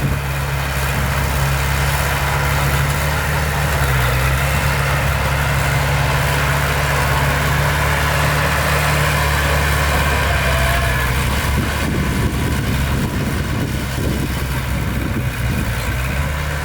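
Diesel engine of heavy earthmoving machinery running steadily at low revs.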